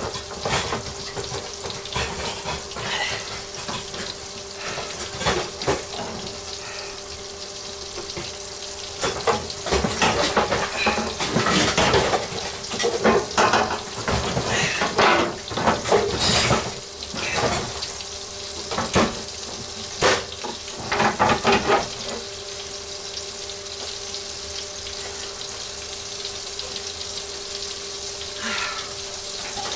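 Flour-coated pork chops frying in hot grease, a steady sizzle with a faint steady hum under it. From about nine seconds in to about twenty-two seconds in, sharp knocks and clatter come over the sizzle.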